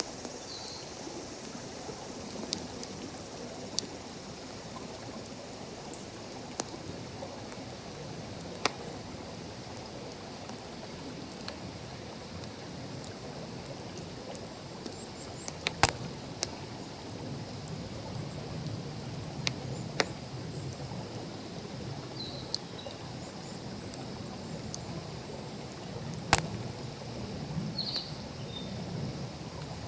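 Wood campfire crackling, with sharp pops every second or so and two louder snaps about 16 and 26 seconds in, over the steady rush of a stream.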